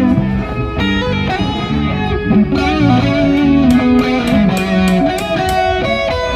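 A live band playing an electric guitar melody over a bass line, with sharp percussive hits in the high end.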